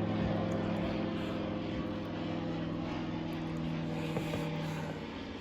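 Microlight aircraft's propeller engine droning overhead, a steady tone that drops slightly in pitch near the end.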